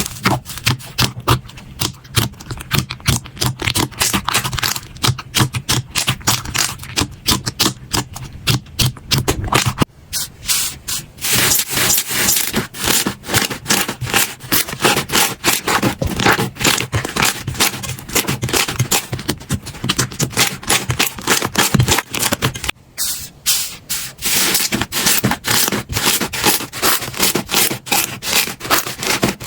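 Slime being squeezed, poked and stretched by hand, giving a fast, dense run of crackling, popping clicks and squishing. The texture changes abruptly twice, about ten seconds in and again about twenty-three seconds in.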